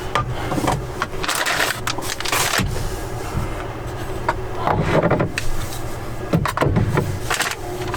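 Belongings being packed into storage: irregular knocks, clatters and scrapes of items being shifted and pushed into place, over a steady low hum.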